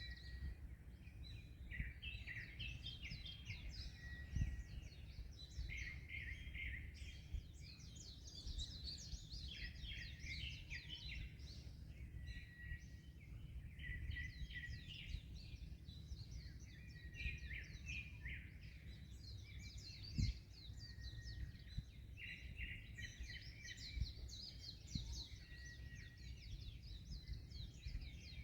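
Several birds chirping and singing continuously, with quick trills and short repeated whistled notes, over a steady low rumble of wind and surf. A couple of brief low thumps stand out.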